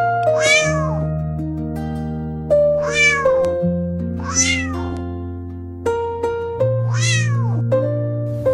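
A cat meowing four times, each meow rising then falling in pitch, over gentle plucked-string background music.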